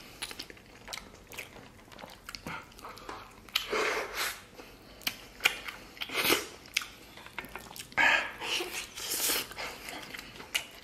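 Close-up mouth sounds of a person biting into and chewing a whole pork knuckle, coming in irregular bursts several seconds apart with small wet clicks in between.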